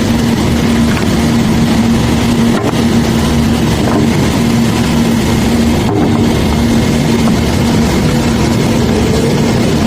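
Heavy unloading machinery's diesel engine running steadily under load, with a constant droning hum and no letup.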